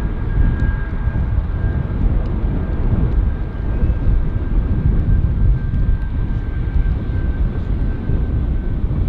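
Airliner engines rumbling steadily and deeply, with a thin high whine that fades out near the end.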